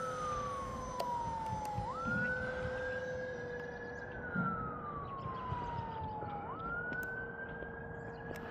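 A wailing siren: its pitch climbs quickly, holds, then sinks slowly, twice over, above a steady hum.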